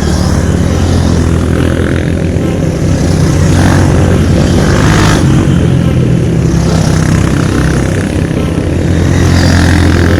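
Enduro dirt bike engine running at fairly steady revs.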